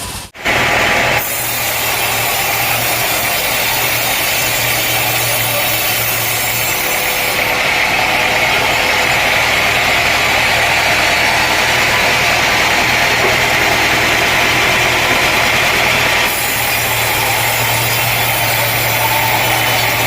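Sawmill machinery running steadily with a constant engine hum, cut off for a moment just after the start. A harsher, higher layer of noise joins from about seven seconds in and drops away at about sixteen seconds.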